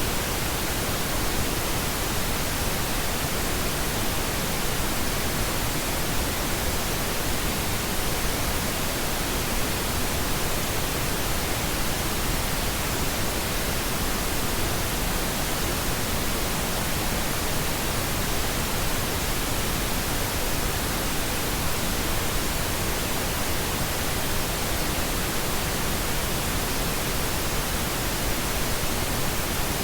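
Steady pink noise: an even, unchanging hiss with a deeper, softer tone than white noise.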